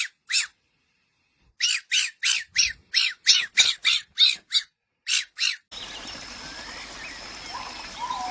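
A run of short, high animal calls, about three a second and sharply separated. About two-thirds of the way in, they give way abruptly to a steady outdoor background with a faint bird whistling.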